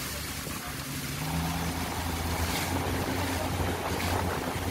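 Tourist boat's engine running steadily with a low hum, growing stronger about a second in, with wind buffeting the microphone.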